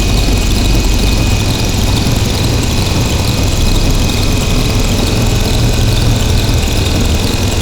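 Harsh noise drone music: a loud, dense wall of distorted electronic noise over a steady low drone, with a steady high whine and a faint repeating flutter on top.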